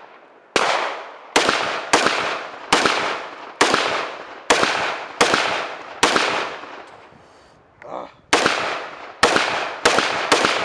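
Rapid semi-automatic rifle fire: about a dozen shots, one every second or less, each crack ringing out with a long echo, with a pause of about two seconds in the middle before the string resumes.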